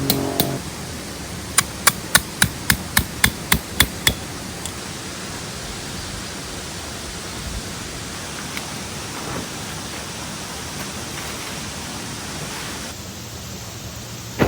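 About ten quick hammer blows, roughly four a second, driving a metal tent peg into the ground, followed by a steady outdoor hiss.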